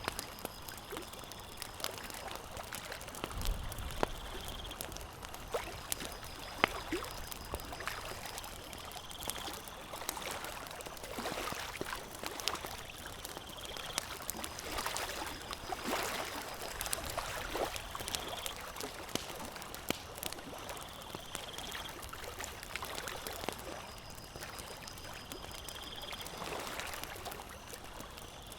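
Campfire crackling: sharp pops and snaps over a steady hiss. A short high-pitched call repeats about every four seconds.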